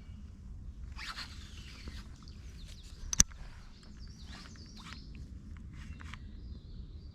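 Low wind rumble on the microphone, with scattered faint high chirps and one sharp click about three seconds in.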